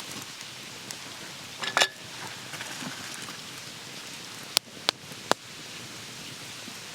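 Monjayaki sizzling on a hot iron griddle as a steady hiss. A short clatter comes near two seconds in, and three sharp clicks come about three seconds later.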